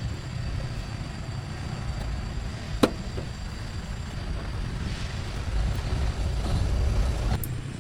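A motor running steadily with a low rumble, louder for a couple of seconds before it drops off sharply near the end. A single sharp click is heard about three seconds in.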